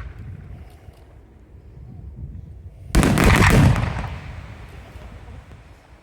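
Firework shell bursting with a loud bang about three seconds in, its rumble dying away over the next two seconds. The tail of an earlier burst fades out at the start.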